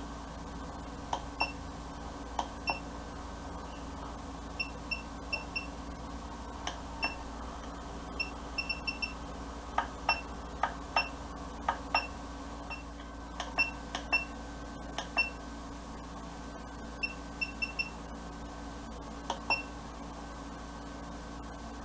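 Short, high electronic beeps, singly and in quick runs of two to four, with sharp clicks among them, over a steady low hum. This fits the beeper of a Wanptek bench DC power supply sounding as its front-panel buttons and knobs are worked.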